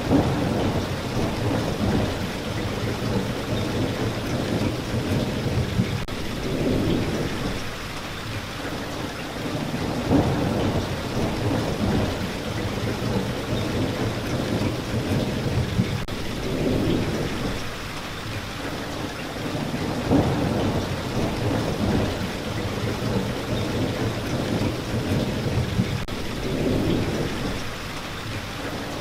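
Steady heavy rain, with low rumbling swells that rise and fade every few seconds.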